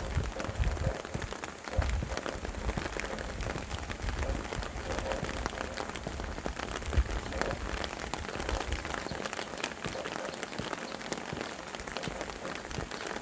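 Steady rain falling on surfaces, a dense hiss full of individual drop ticks, with gusts of wind rumbling low at uneven intervals.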